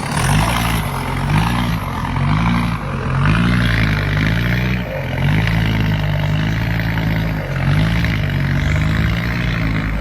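Diesel truck engine being revved up and down in a rhythmic pattern, its low note rising and falling about once a second as the accelerator is pumped.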